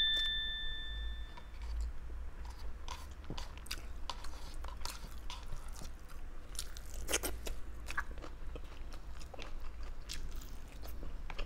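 Close-miked chewing and biting of grilled Thai sausage, with scattered wet mouth clicks and smacks.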